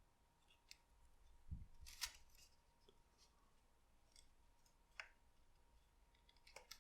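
Faint crinkles and small clicks of paper parts being handled, folded and pressed together for a papercraft model, with a soft thump about a second and a half in.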